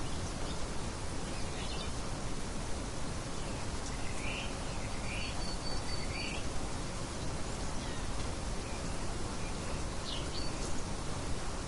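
Birds chirping in a nature ambience: a few short chirps and a thin whistle, scattered over a steady background hiss.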